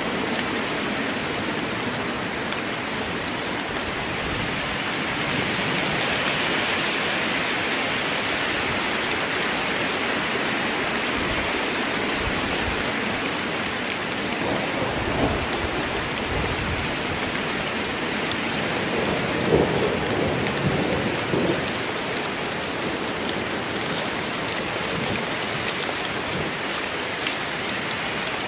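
Steady rain falling on woodland, an even hiss, with a low rumble about halfway through and a few brief louder spatters soon after.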